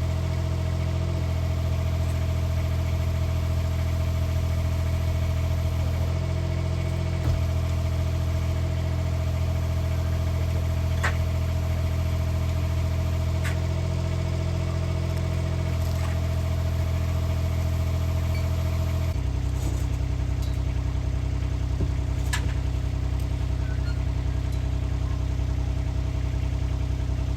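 An engine running steadily, with a few sharp clicks over it; about two-thirds of the way through, its note drops lower and stays there.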